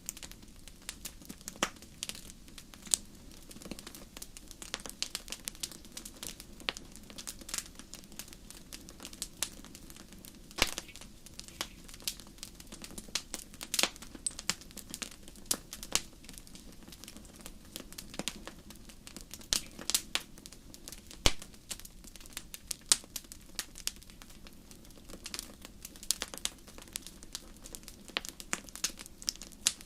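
Wood fire burning in a fireplace, with irregular sharp crackles and pops over a soft steady hiss.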